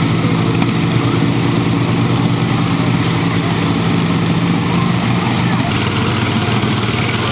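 Tractor engine running steadily, its tone shifting slightly about two-thirds of the way through.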